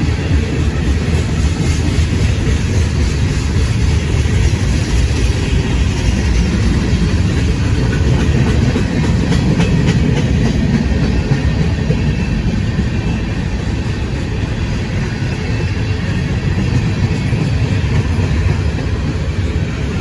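Railcars of a passing train rolling by on the track: a steady, loud rumble with the clicking of wheels over rail joints, and no horn.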